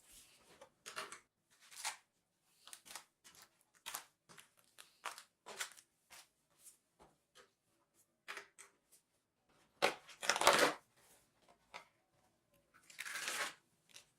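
Plastic food packaging being handled, with repeated short rustles and crinkles as meat is unwrapped and portioned. A longer, louder crinkle comes about ten seconds in and another near the end.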